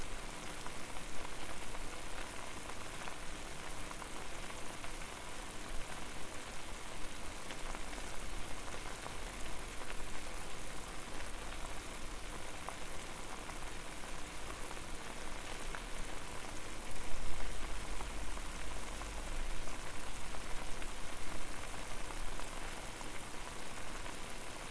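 Water at a rolling boil, a steady dense crackle and patter of bursting bubbles, with a low rumble that swells and is loudest about two-thirds of the way through.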